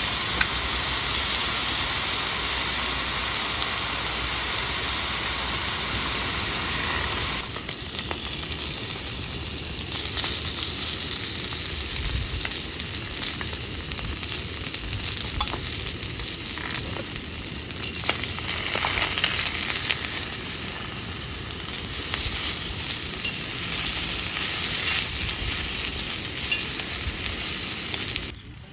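Food frying in a pan, a steady sizzle with small crackles, which cuts off suddenly near the end.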